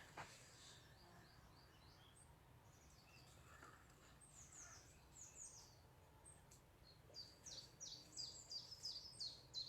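Faint woodland birdsong: small birds chirping in quick runs of high, falling notes. The chirping grows denser and louder in the last two seconds or so.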